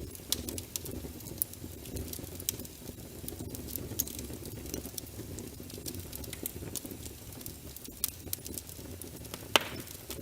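Wood fire burning in a fireplace: a steady low rumble of flames with frequent sharp crackles and pops from the logs, and one louder pop about nine and a half seconds in.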